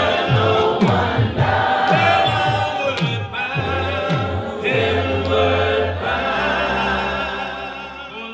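Gospel choir singing with a band behind it, over a steady low beat that gives way to a held bass note about six seconds in.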